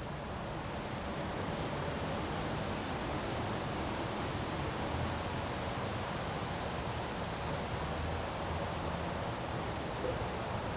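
Windstorm: a steady rushing wind with a low rumble.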